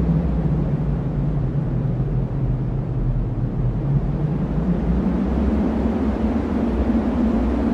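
Cyclone wind blowing hard: a steady, deep rushing noise with no breaks.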